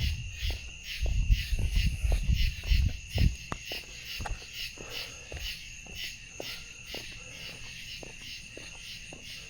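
Night insects, crickets, chirping in a steady pulsing chorus. A low rumble runs under the first few seconds, and faint regular ticks come about twice a second.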